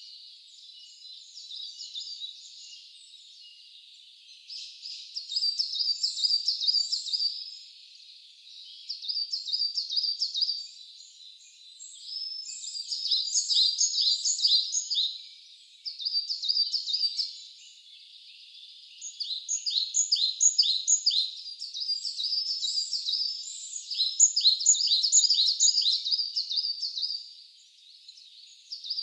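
Songbird singing in repeated phrases of rapid high notes, each phrase lasting about two to three seconds with short pauses between, over a faint high hiss.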